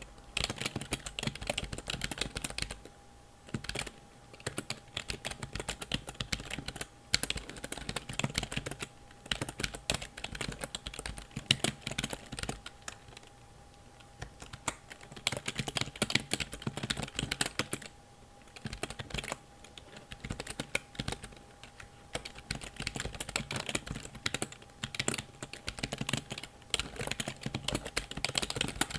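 Computer keyboard being typed on in quick runs of key clicks, broken by short pauses.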